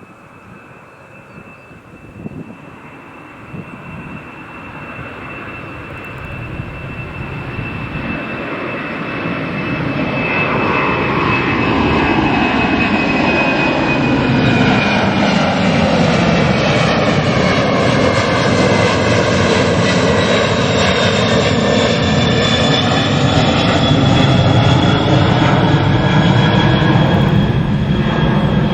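Jet airliner's engines at takeoff power as it departs past, building steadily over the first ten seconds or so to a loud, steady rumble. A high whine falls slowly in pitch through it.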